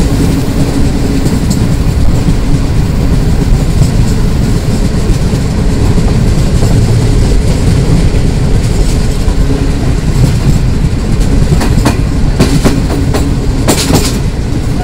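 Pak Business Express passenger coach rolling at speed, heard from its open door: a steady, loud rumble of wheels on rails, with a run of sharp clacks near the end.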